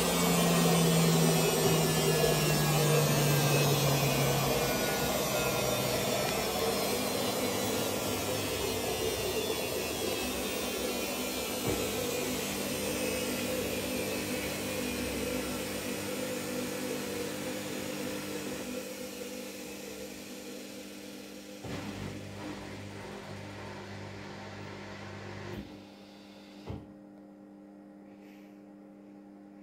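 Haier HW60-10636A narrow front-loading washing machine running down from its 1000 rpm spin: the motor whine and drum noise fall steadily in pitch and fade over about twenty-five seconds. A couple of sharp clicks come in the last few seconds, leaving only a faint steady hum.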